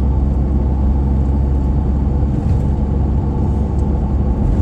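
Steady low rumble of a vehicle's engine and tyres on the road, heard from inside the cab while driving.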